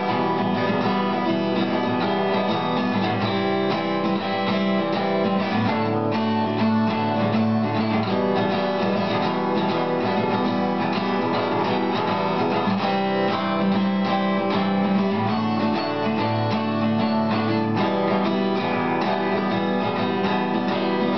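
Strummed acoustic guitar playing an instrumental passage of chords with no singing, at a steady level.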